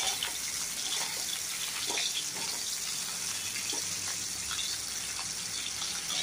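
Cauliflower florets sizzling as they fry in hot oil, a steady hiss with scattered crackles.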